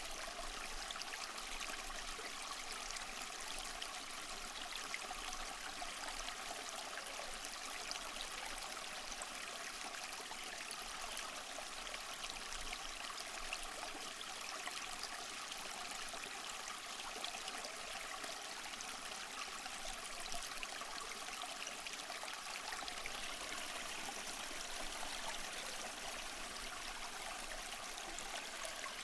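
Small mossy waterfall: water falling and splashing over rocks in a steady, even rush with a trickling, babbling texture.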